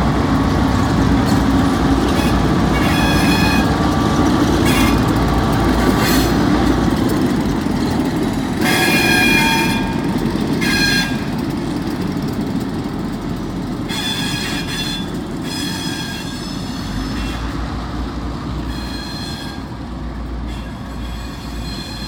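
Freight train passing: the low, steady rumble of the locomotives and rolling cars, with high-pitched wheel squeal breaking in several times as the wheels grind through the curve. The sound slowly fades as the train moves away.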